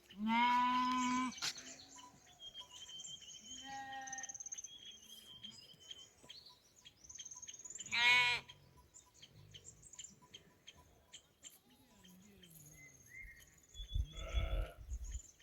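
Livestock bleating: a long call near the start, a short call about eight seconds in, and a rougher call near the end, with small birds chirping faintly between them.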